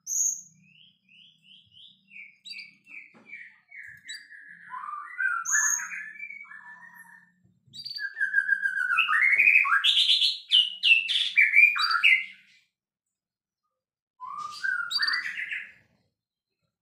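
White-rumped shama singing a fast, varied song: a string of quick whistled notes, then a louder run of rapid, changing phrases in the middle, a pause of over a second, and one more short phrase near the end.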